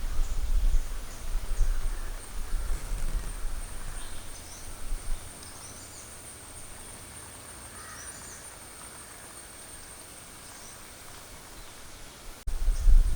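Wind buffeting the microphone in gusts for the first few seconds, then easing off, returning suddenly near the end. Under it a steady high insect drone and scattered faint chirps of small birds.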